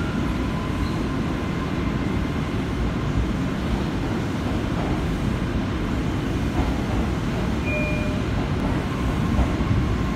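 Steady rumble of a New York City J subway train running, heard from inside the car.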